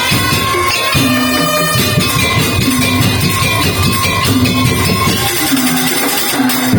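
Madurese daul (tong-tong) ensemble music: drums and struck percussion in a busy, steady beat under a held high tone and a short low melodic phrase that repeats.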